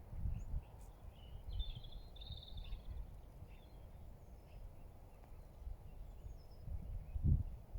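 Wind buffeting the microphone in low rumbling gusts that grow stronger near the end, with a short, high bird call about two seconds in and a few faint chirps after it.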